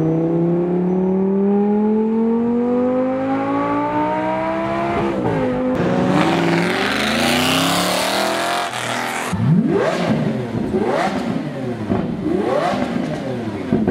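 A car engine accelerating hard: its pitch climbs steadily for about five seconds, dips at a gear change, then climbs again with rising tyre and wind noise as it goes by. Near the end come several quick rises and falls in pitch, like sharp revs or fast shifts.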